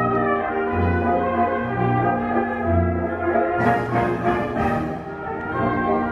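Brass ensemble playing sustained chords over a bass line that pulses about once a second. About three and a half seconds in, a burst of bright hiss, like cymbals, lasts about a second.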